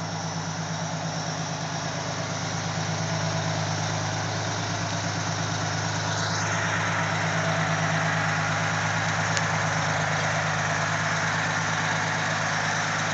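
Fire engine's motor idling steadily with an even low rumble, growing a little louder over the first few seconds.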